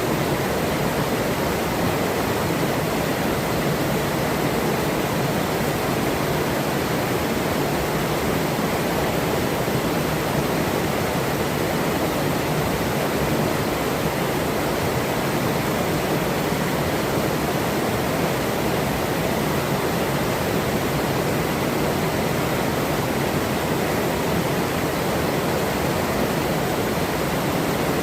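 Forest river's running water: a steady, even rush with no breaks.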